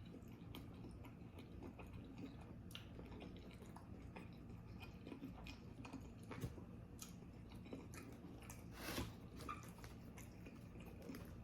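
Faint chewing of pizza roll casserole close to the microphone: soft wet mouth clicks scattered throughout, with a slightly louder bite about nine seconds in.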